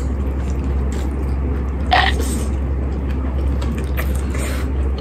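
Close-up chewing of a mouthful of tteokbokki over a steady low hum, with one brief louder sound about two seconds in.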